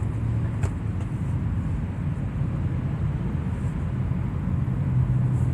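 Steady low hum of a car's engine and road noise, with a faint click about half a second in.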